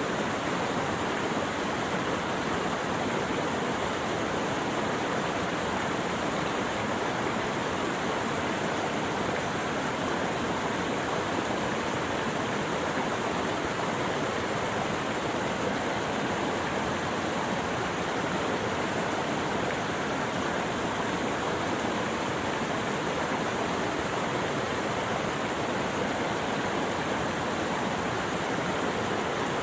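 Steady rushing of running water, an even unbroken hiss with no calls or other events over it.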